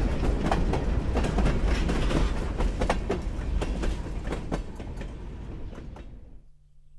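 Freight cars (boxcars and a tank car) rolling past, wheels clicking and clattering on the rails over a low rumble. The sound fades as the end of the train moves away, then cuts off suddenly about six seconds in.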